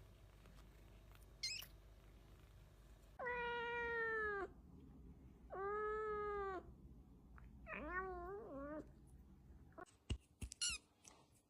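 Cat meowing: a short high squeak, then two long meows about a second each, then a wavering, broken meow. A few clicks and another brief high squeak follow near the end.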